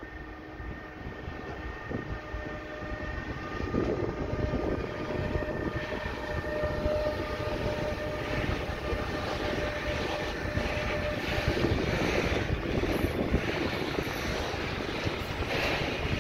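Class 186 (Bombardier TRAXX) electric locomotive hauling a container train past. A steady electric whine fades out about eleven seconds in. The rumble and clatter of the container wagons' wheels on the rails grows louder as the train rolls by.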